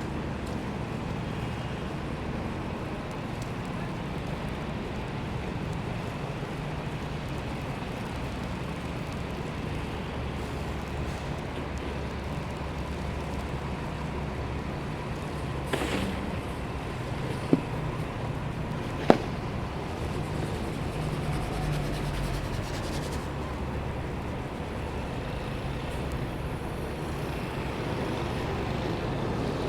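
City street traffic noise, steady throughout, with three short sharp knocks a little past halfway.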